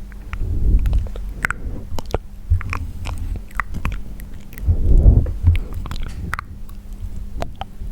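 Close-miked wet mouth sounds for ASMR: quick irregular clicks, smacks and pops of lips and tongue over low breathy swells, loudest about five seconds in.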